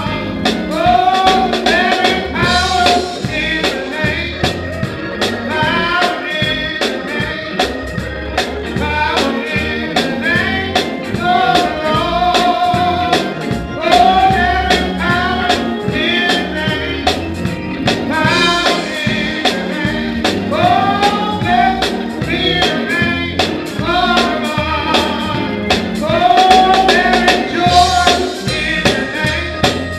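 Gospel praise song sung over an instrumental accompaniment with a steady beat.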